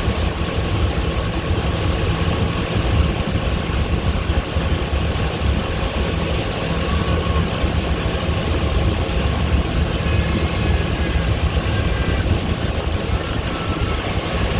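Tour boat's engine running steadily under way, a constant low hum with an even rush of noise over it.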